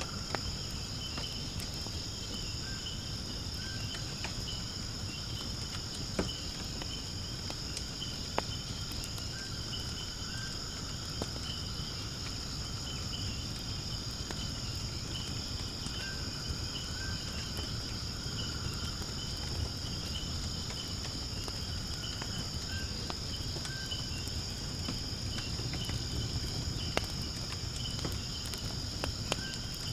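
Steady high-pitched insect chorus, like crickets trilling, over a wood fire in a fire pit burning with a low rumble. The fire gives a sharp crackle or pop every few seconds.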